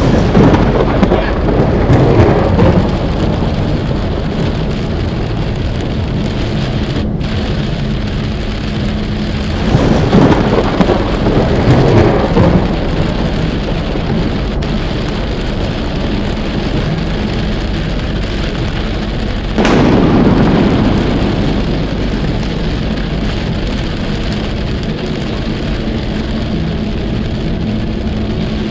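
Heavy rain pelting a moving car, with a dense rushing roar and a steady low hum underneath. The roar swells louder three times, near the start, about ten seconds in and about twenty seconds in.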